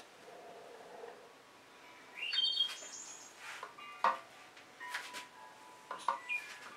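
Birds chirping in short, high calls with quick rising glides, with a few sharp clicks in the second half.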